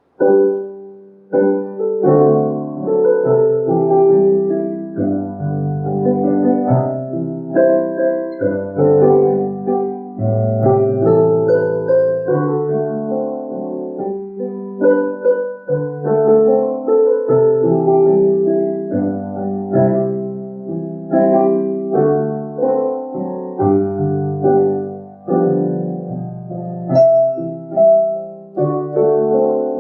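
Piano playing a slow hymn accompaniment in full chords over bass notes. It comes in suddenly at the start.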